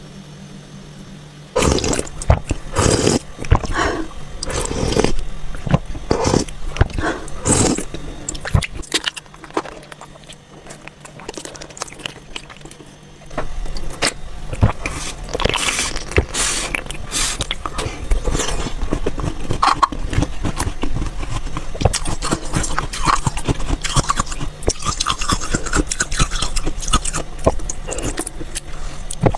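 Close-miked crunching of frozen ice being bitten and chewed: a dense run of crisp crackles and crunches. It eases off for a few seconds near the middle, then goes on steadily again.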